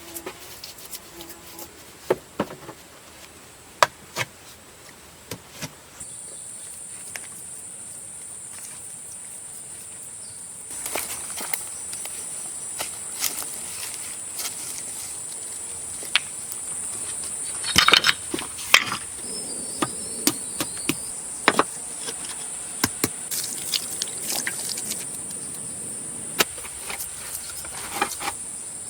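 A steady high-pitched insect drone starts about six seconds in. Scattered clicks and knocks sound over it, loudest around eighteen seconds in.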